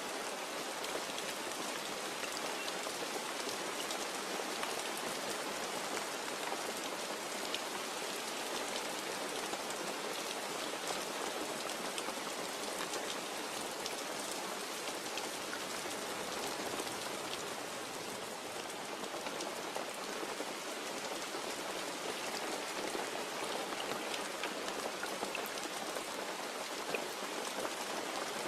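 Steady rain with drops pattering on a surface.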